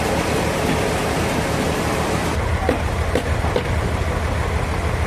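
Sawmill machinery running: a steady low engine drone under a hiss. A little over two seconds in the hiss drops away, leaving the engine drone with a few light knocks.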